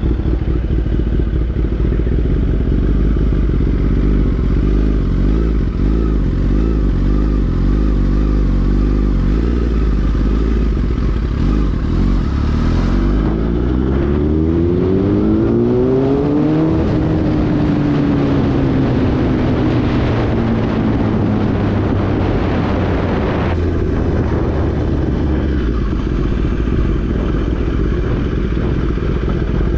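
Kawasaki ZX-10R's inline-four engine running under the rider. About halfway through, its pitch climbs steeply as the bike accelerates, then falls away slowly as it slows, and the rushing hiss drops off suddenly about two-thirds of the way through.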